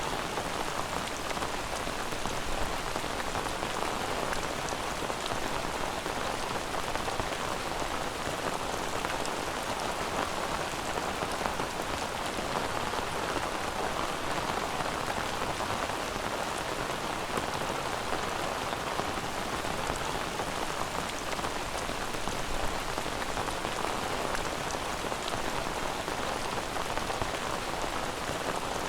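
Steady rain falling on a surface, an even hiss that holds at one level throughout.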